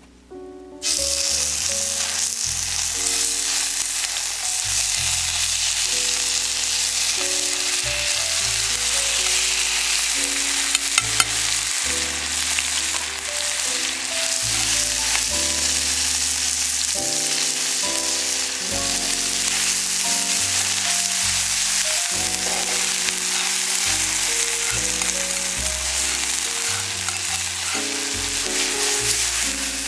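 Food dropped into a hot pan about a second in and frying with a loud, steady sizzle, with a few clicks of a utensil stirring it. Background music plays quietly underneath.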